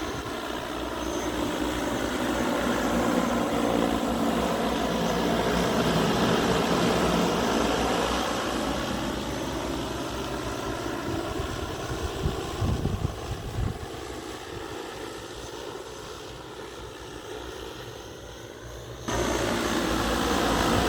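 Multi-rotor agricultural spraying drone's propellers buzzing as it flies past, growing louder to a peak about six seconds in and then slowly fading. Near the end the sound jumps suddenly to a louder, wind-like noise.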